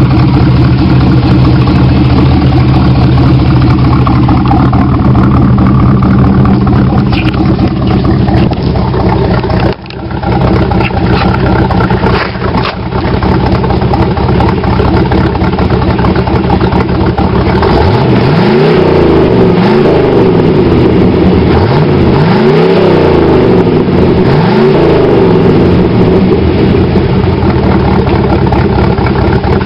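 1987 Chevrolet Camaro's 350 V8, with a Crane cam and Dynomax exhaust, idling steadily, then revved several times past the middle, each rev rising and falling back, before settling back to idle.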